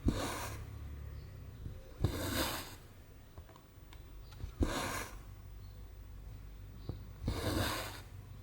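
Cotton thread pulled through 14-count cross-stitch canvas: four short swishes about two and a half seconds apart, each starting with a sharp click as the needle goes through.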